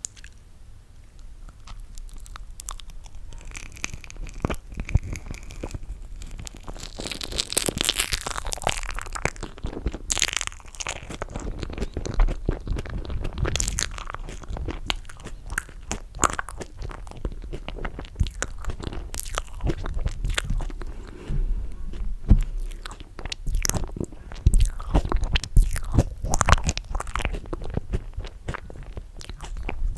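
Close-miked eating of roasted marshmallow scooped up by spoon: chewing and biting, with many short sharp clicks and smacks, softer in the first few seconds.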